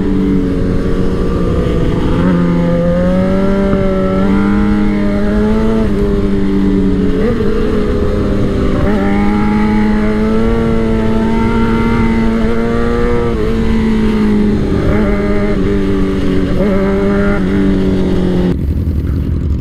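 Suzuki GSX-R 600's inline-four engine and exhaust under way at steady revs, the pitch rising and falling a few times with the throttle, over a low rush of wind.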